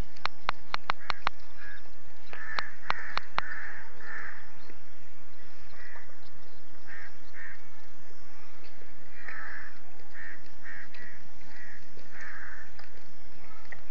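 Repeated crow-like caws, each short, coming every second or so, with a quick run of sharp clicks near the start and another about two and a half seconds in.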